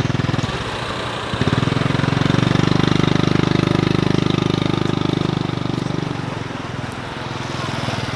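A small engine running with a fast, even beat, growing louder about a second and a half in and easing off toward the end.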